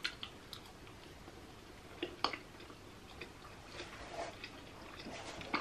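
Quiet chewing of a salmon hosomaki sushi roll, with a few small sharp mouth clicks scattered through; the two loudest come close together about two seconds in.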